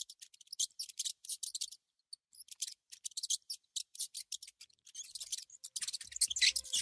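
Small magnetic balls clicking and snapping together in quick, irregular runs of sharp clicks, with a short pause a couple of seconds in. Background music comes in near the end.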